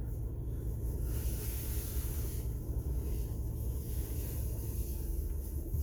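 Steady low vehicle engine rumble with a faint hiss, as heard from inside a vehicle's cab.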